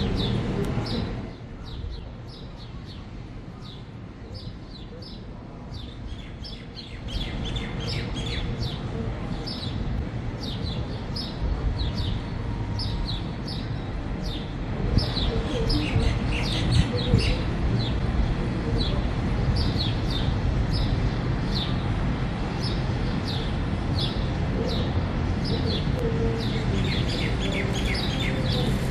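Small birds chirping, short falling chirps repeated over and over, above a steady low rumble of city noise that drops off for a few seconds near the start and then comes back.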